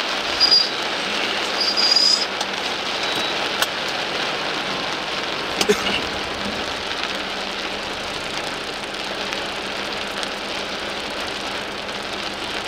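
Heavy rain falling on a car's roof and windshield, heard from inside the slowly moving car as a steady noise. Two short high squeaks come in the first two seconds, and a couple of sharp clicks follow a few seconds later.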